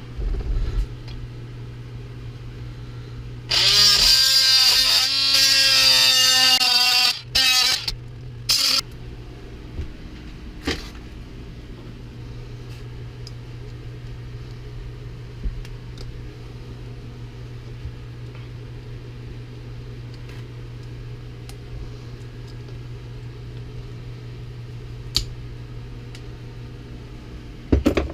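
A power tool runs in a loud burst of about three seconds, its pitch wavering, then in two short blips. A steady low hum sounds throughout, with a few faint clicks later.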